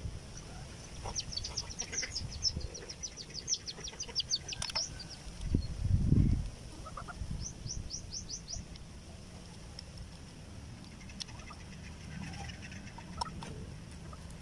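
A small bird chirping in quick high trilled series, about a second in and again near eight seconds, with a loud low thump about six seconds in.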